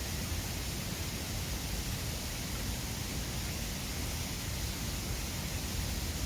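Mountain river rushing steadily over stones: a constant, even roar of flowing water.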